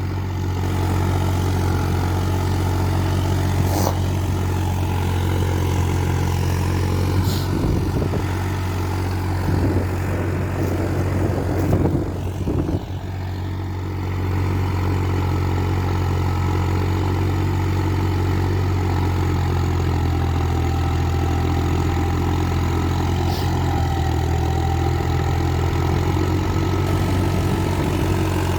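New Holland 3630 tractor's three-cylinder diesel engine running steadily, with a stretch of rattling about 8 to 13 seconds in.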